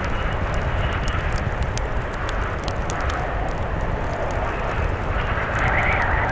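Blizzard wind howling in gusts, with a swell near the end, over a low rumble, mixed with the light crackle of a wood fire.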